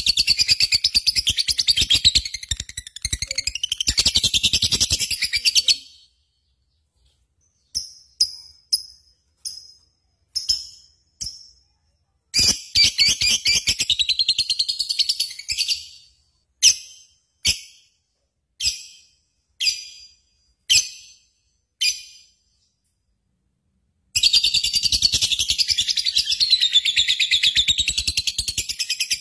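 Bird chirping in rapid, high-pitched chatter. It breaks off about six seconds in, comes back as a string of short separate calls, then resumes as continuous chatter near the end.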